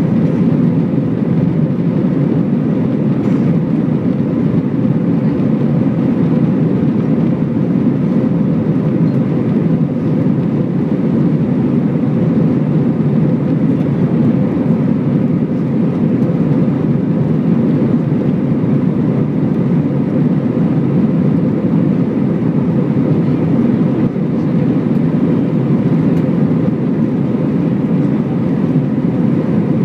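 Steady roar of jet engines and airflow heard inside an airliner cabin in flight after takeoff.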